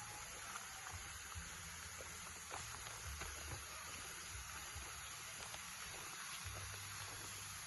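Waterfall rushing as a steady, fairly faint hiss of falling water, with a few faint clicks and intermittent low rumbles.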